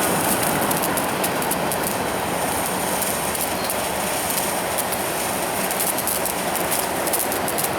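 Firework burning with a steady spraying hiss and rapid, irregular crackling.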